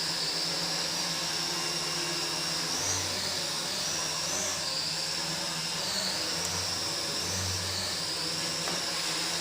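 Small foldable quadcopter drone in flight, its propeller motors whirring steadily with a high whine that wavers slightly in pitch as it holds its position.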